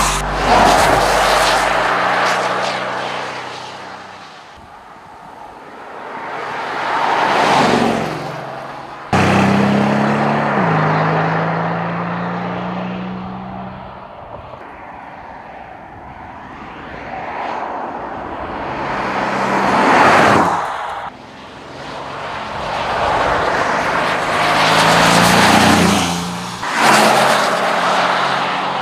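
2025 Bentley Continental GT Speed's twin-turbocharged V8 plug-in hybrid engine in a run of drive-bys, its note swelling and fading several times as the car passes through the bends. About nine seconds in, the sound jumps suddenly to a nearer, steadier engine note.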